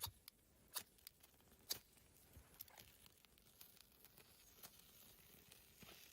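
Near silence broken by a few faint, scattered clicks, about six over the stretch, most of them in the first two seconds.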